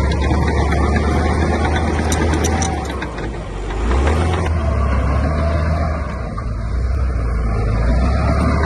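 Heavy diesel engine of earthmoving machinery running steadily under load, easing off briefly about three seconds in and again around six seconds.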